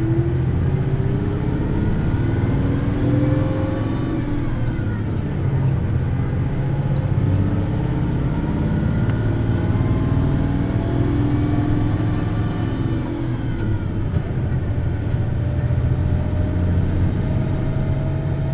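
Hino Blue Ribbon City Hybrid bus pulling away and running, heard on board. The diesel engine's pitch climbs in three long rising passes as it revs high through the gears, over a steady low rumble. A faint high whine from the hybrid electric drive rises and falls with each pass.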